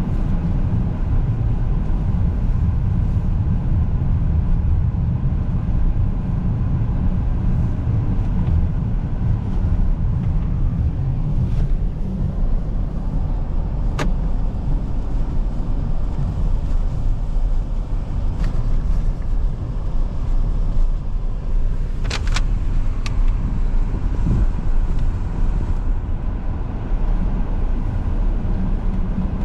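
A car driving: a steady low rumble of engine and road noise, with a sharp click about halfway through and a few more clicks about three-quarters of the way in.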